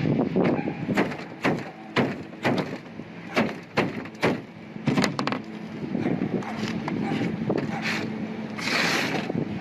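Sharp knocks and scraping of hand work on a sheet-metal roof at an old caulked patch, about two knocks a second for the first five seconds, then a short hissing scrape near the end.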